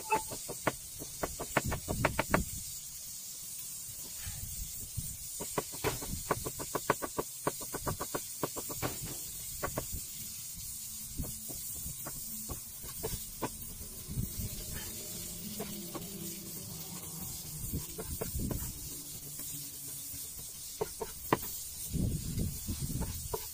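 Runs of quick knocking strokes as garlic, ginger and chili are crushed for a dipping sauce, coming in fast bursts of about four to five strokes a second. A steady hiss runs underneath.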